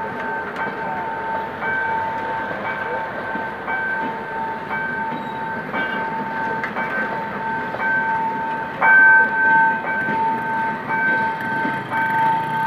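Passenger coaches rolling past at low speed, wheels clicking over rail joints, while a level-crossing warning signal rings over and over in a repeating two-tone pattern. It gets louder about nine seconds in.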